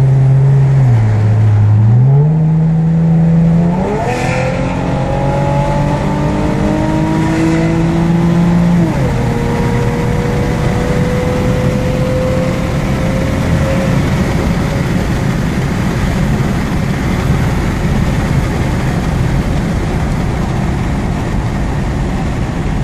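2013 Chevrolet Camaro with an aftermarket exhaust pulling away under acceleration, heard from inside the cabin with the windows down: the engine note dips, then climbs in pitch in steps and rises steadily until about nine seconds in. After that it eases off into a steady wash of road and wind noise.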